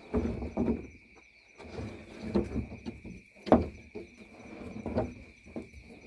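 Irregular knocks, clatter and scraping, the sharpest knock about three and a half seconds in, over a steady high-pitched tone.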